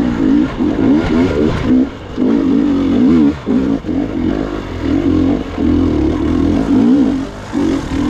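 Gas Gas EX 300 two-stroke dirt bike engine under hard, uneven throttle, its revs rising and falling constantly, with several brief drops where the throttle is chopped.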